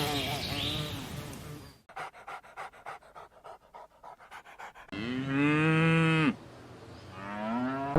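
Animal calls: a pitched call dies away, then about three seconds of quick, rhythmic breath-like pulses, then a long arching call and, near the end, a shorter rising one.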